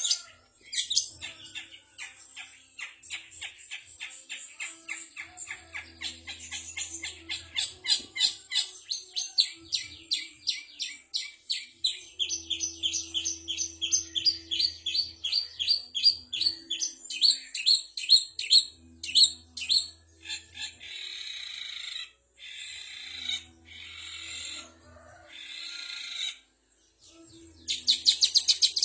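Recorded songbird calls: long runs of quick, sharp chirps, several a second, giving way in the second half to harsher, buzzier chattering phrases.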